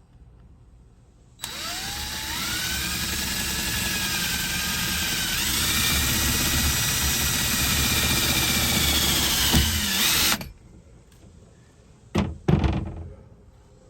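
Cordless drill driving a self-tapping screw through a wooden furring strip into the van body, running for about nine seconds. Its whine rises as it spins up, climbs again partway through, then stops suddenly. Two short bursts follow near the end.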